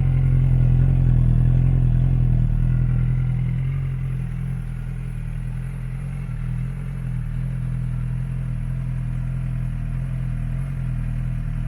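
Suzuki GSX-S1000's inline-four engine idling steadily through a Yoshimura exhaust. It is a little louder for the first few seconds, then settles to an even, lower level.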